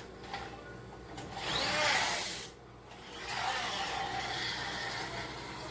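Hands kneading flour-and-water dumpling dough in a bowl: rubbing and pressing sounds, loudest about two seconds in, then steadier after a short break.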